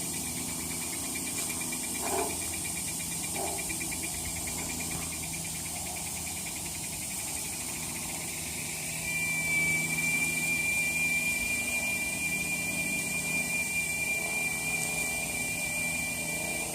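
High-pitched insect call: a fast pulsing trill that turns into a steady whine about nine seconds in, over a faint high hiss.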